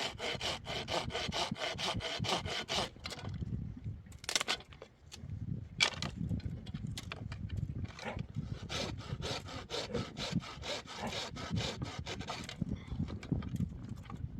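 Hand saw cutting through wood in quick, even strokes, about four a second, pausing for a couple of seconds partway through before the sawing resumes.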